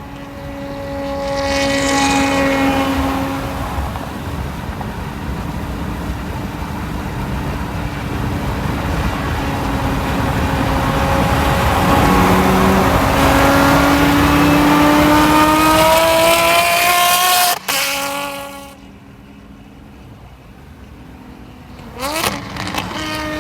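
Ferrari 599's V12 with headers and a full race exhaust, pulling hard under acceleration, its pitch climbing steadily for well over ten seconds before cutting off sharply. After a few quieter seconds, a short rising rev comes near the end.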